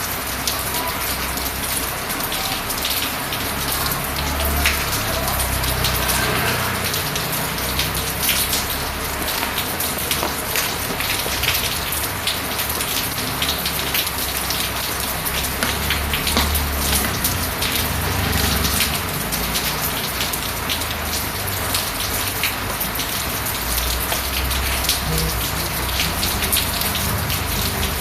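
Steady rain falling, a dense hiss full of individual drop ticks, with a low rumble underneath at times.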